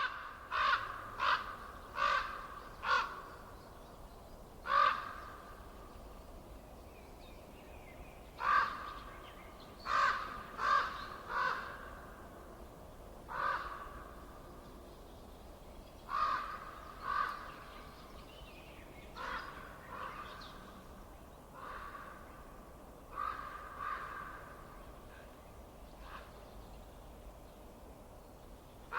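A bird giving short repeated calls, about twenty in all, often in quick runs of two to four, over a faint steady background hiss.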